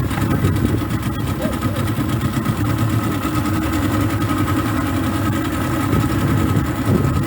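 A small boat's motor running steadily as it moves slowly through flood water, a constant low hum.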